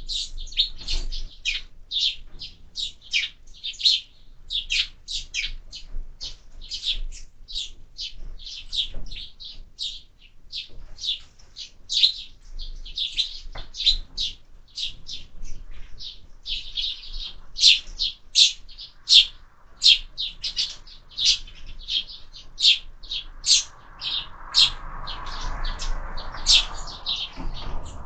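Sparrows at a feeder chirping without a break, two or three short chirps a second. A soft rushing noise joins in near the end.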